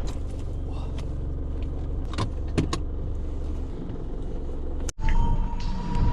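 Car cabin noise while driving: a steady low rumble of engine and road, with a few sharp clicks and rattles. About five seconds in it cuts abruptly to a different sound with steady tones, the start of music.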